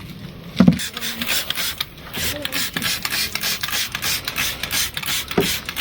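A sharp knock a little over half a second in, then rapid back-and-forth scraping strokes, several a second: metal parts of a Ford flathead V8 being scrubbed by hand to clear rust and scale.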